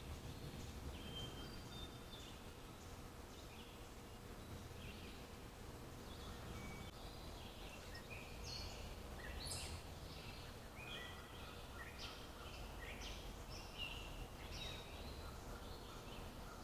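Several wild birds chirping and calling in short high notes, busier from about halfway through, over faint steady low background noise.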